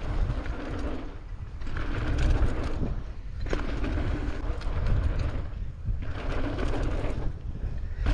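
Wind rumbling on an action camera's microphone, with tyre noise from a mountain bike rolling down a dirt trail, swelling and easing about once a second.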